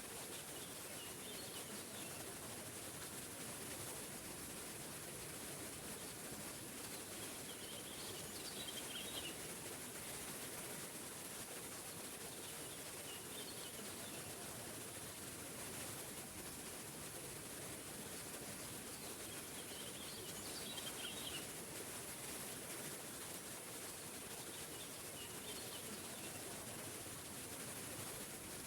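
Small forest waterfall rushing steadily, with a songbird singing short phrases about every five or six seconds.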